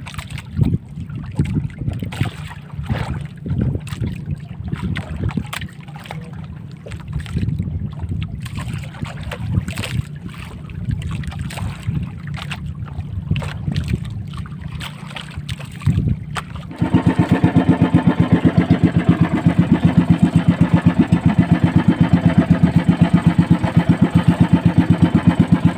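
Irregular wind and water rumble with scattered knocks, then about two-thirds of the way in a small outrigger-boat engine starts and runs with a rapid, even chugging.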